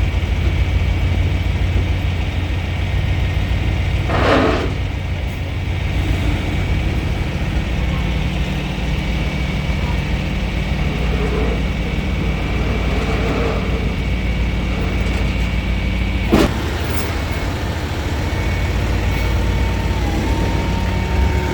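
Tow truck's engine running steadily during offloading of a car, with a short hiss about four seconds in and a sharp clunk about sixteen seconds in.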